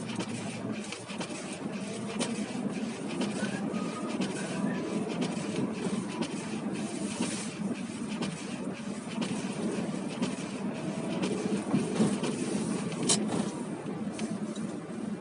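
Car driving on a snowy, slippery winter road, heard from inside the cabin: a steady rumble of engine and tyres with many small clicks and knocks through it.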